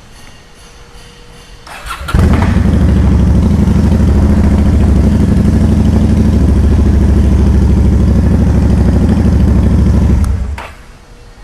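Honda Shadow Spirit 750's V-twin engine starting on a brief crank about two seconds in, then running steadily, started after an oil change to circulate the fresh oil before the level is checked. The sound stops near the end.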